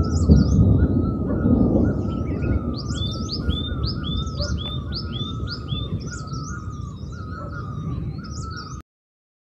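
Several birds calling over and over in short, repeated chirps, with a low rumbling noise underneath that is loudest in the first two seconds. The sound cuts off suddenly near the end.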